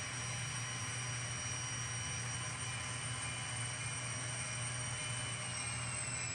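N scale model locomotive running along the track with a steady high-pitched whine over a low hum. The whine drops slightly in pitch near the end as the train slows.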